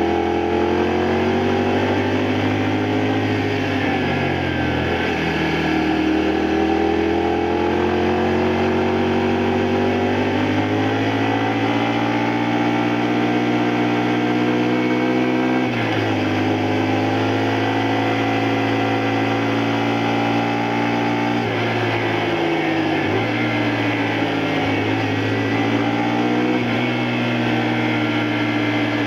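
A 2002 Honda Varadero XL125V motorcycle's 125 cc V-twin engine running under way. Its note climbs steadily as it pulls, then falls sharply at gear changes: a big drop just past halfway and several smaller dips in the last third.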